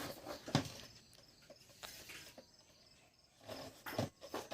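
Rustling and light knocks of a headphone box and its packaging being handled and opened, loudest near the end. Crickets chirp faintly in the background.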